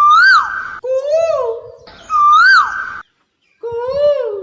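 Four koel-style 'kuhoo' calls, each rising then falling in pitch, trading back and forth between a higher and a lower voice like a call and an answer.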